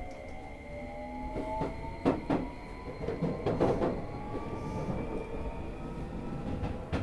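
Keio 2000 series electric train pulling away, its traction motor whine slowly rising in pitch as it gathers speed. Several sharp clicks and thumps from the wheels on the track come between about one and a half and four seconds in.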